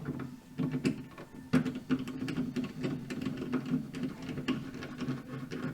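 Small electric driver running slowly, driving a screw into a plastic side rail, with a steady whir and irregular clicking as the screw seats.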